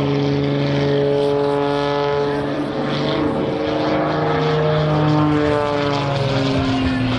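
The MXS-RH aerobatic monoplane's 360-horsepower piston engine and propeller running at high power in flight, a loud steady drone whose pitch shifts as the plane maneuvers, dropping about five and a half seconds in.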